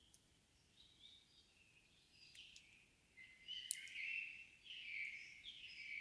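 Evening forest birds singing faintly, the song growing louder and busier about halfway through, with a few sharp clicks among the phrases.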